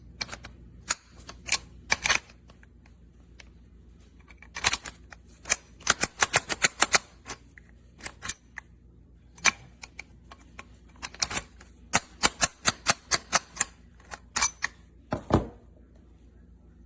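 Irregular sharp clicks and clacks of small hard parts being handled, some in quick runs of several a second.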